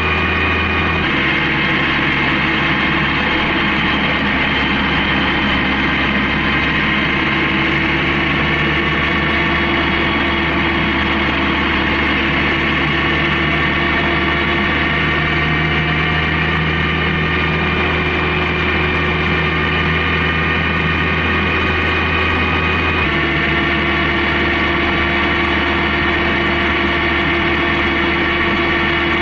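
Honda CB750K's four-cylinder engine running steadily under way, a constant drone of several even tones. Its pitch steps to a new level about a second in and again near the end.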